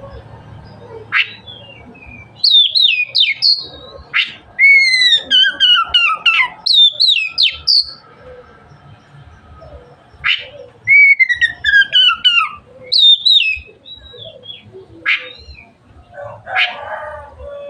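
Oriental magpie-robin (kacer) singing: loud whistled phrases of quick varied notes and long falling slurred whistles, in two main bursts, with single sharp calls in between.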